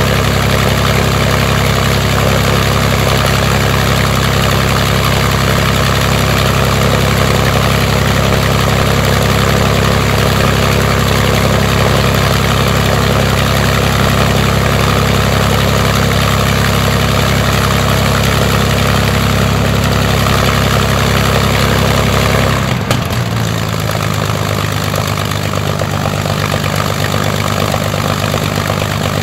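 Rolls-Royce Merlin V12 aero engine running steadily on test with its propeller turning in fine pitch. About 23 seconds in the engine note changes suddenly to a slightly quieter, lower-set steady running.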